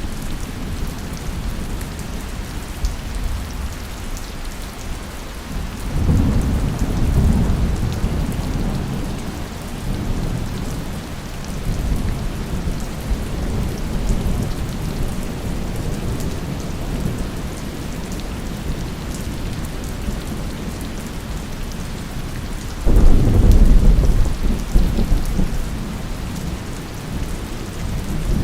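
Steady heavy rain falling on surfaces, with rolling thunder: one low rumble building about a fifth of the way in, and a louder, sharper thunderclap starting suddenly near the end and rumbling on.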